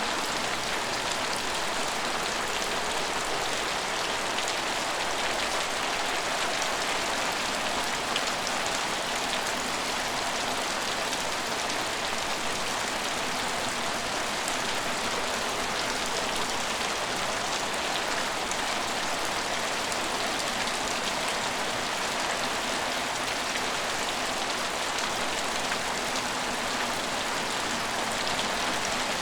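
Steady rain falling on an empty station, a constant hiss of drops with fine pattering on hard surfaces.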